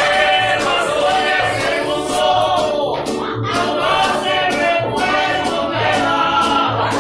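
Mexican band music with singing over a steady bass beat and light percussion.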